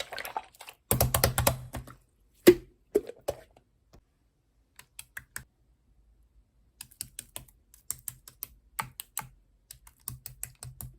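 Slime being pressed and squished by hand, making bursts of quick sharp clicks and pops as air pockets burst, with one louder pop about two and a half seconds in and a short pause in the middle.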